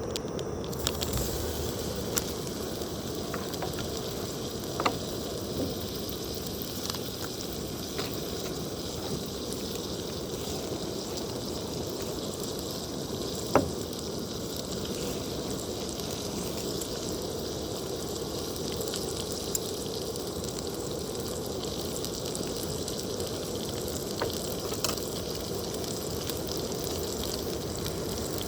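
Food sizzling in a frying pan on a camp stove: a steady hiss with scattered sharp pops, one louder pop about halfway through.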